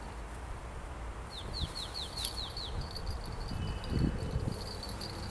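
A small bird singing a quick run of about seven high falling notes, followed by a high repeated note, over a steady low outdoor rumble. A soft thump comes about four seconds in.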